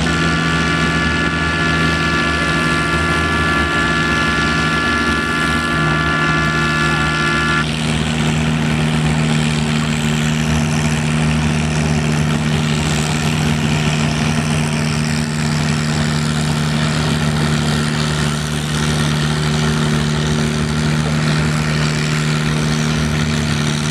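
An engine idling steadily, with a high steady whine over it that cuts off about a third of the way through.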